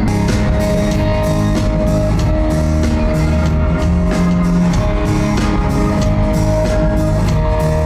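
A rock band playing live, with electric guitar and drums over a steady bass line.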